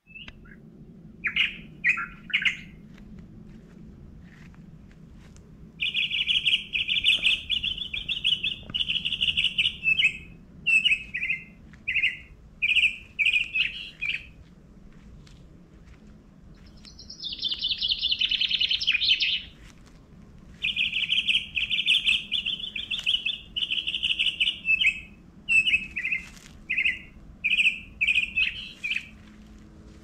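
A songbird singing: runs of quick repeated whistled notes lasting several seconds at a time, broken by pauses and shorter groups of chirps.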